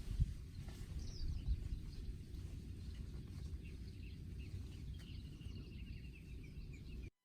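Outdoor ambience: a low steady rumble with faint bird calls, including a short run of chirps about five seconds in. The sound cuts off abruptly just before the end.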